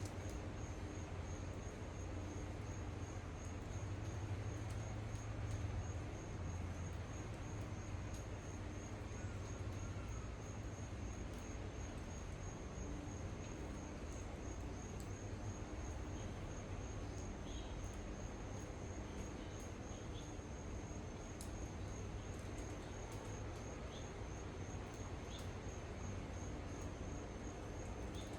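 An insect trilling steadily in a high, evenly pulsing tone, over a low steady hum, with a few faint short high chirps in the second half.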